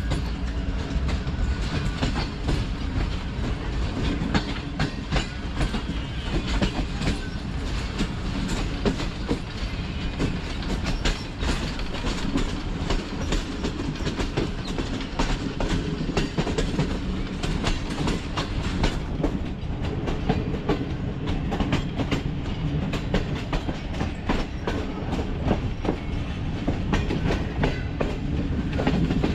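Passenger train running along the line: a steady rumble with wheels clicking over the rail joints throughout.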